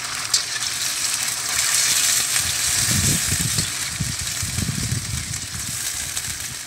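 Chicken pieces coated in ginger-garlic paste sizzling in hot oil in a karahi while being stirred with a spoon. The sizzle is a steady hiss; a low rumble joins it from about three to five seconds in.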